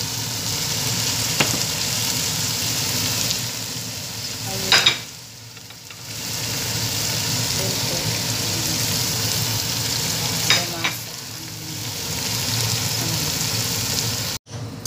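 Chicken and vegetables sizzling in a pot in a steady frying hiss. Two sharp clinks come about five and ten seconds in, each followed by a short lull, and the sound cuts off abruptly near the end.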